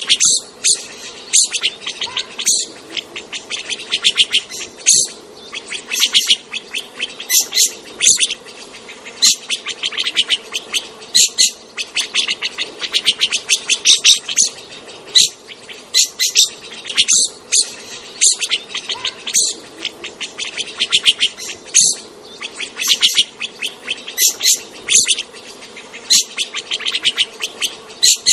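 Birds chirping: short, high-pitched rasping calls repeated irregularly, one to three a second, over a faint steady hum.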